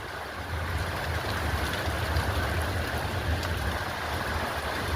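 Steady rushing noise of a strong thunderstorm: heavy rain with wind rumbling on the microphone.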